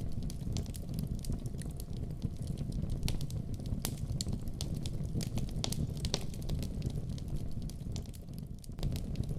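Wood fire burning in a fireplace: a steady low rumble of flames with irregular sharp pops and crackles from the burning logs.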